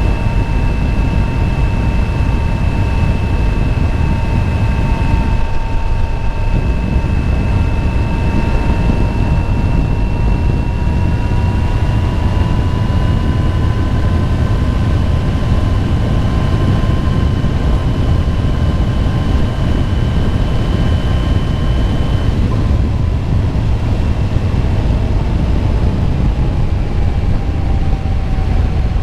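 Motorcycle cruising at steady speed, its engine running under a steady rumble of wind and road noise. The engine's pitch climbs a little partway through, then drops gradually in the last few seconds as it eases off.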